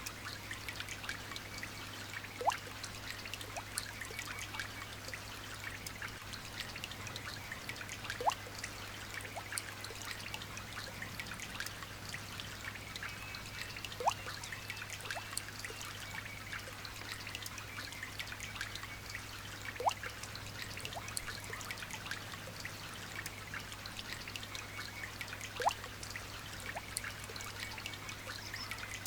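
Light rain pattering and trickling in a steady patter of fine drops, with a short rising note about every six seconds standing out as the loudest sound.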